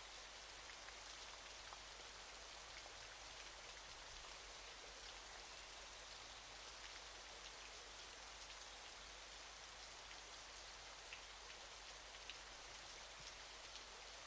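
Faint, steady hiss of falling water, with small droplet ticks scattered through it.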